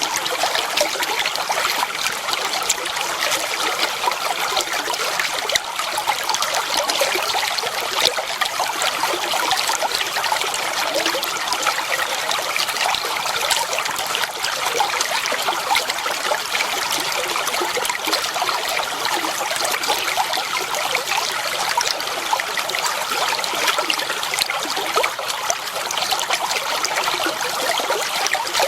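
Clear water flowing and trickling steadily over stones in a shallow stream, a dense, even splashing babble with no pauses.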